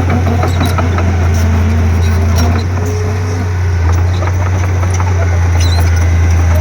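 Komatsu D31P bulldozer's diesel engine running with a steady low drone, with scattered clanks and clicks over it.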